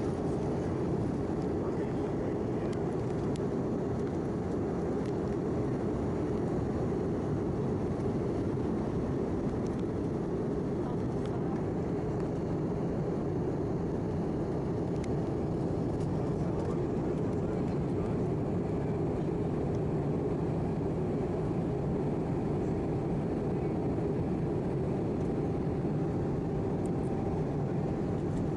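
Steady in-flight cabin noise of an Airbus A319-111: the drone of its CFM56 engines and the rush of air past the fuselage, heard from a window seat inside the cabin. A faint steady whine comes in near the end.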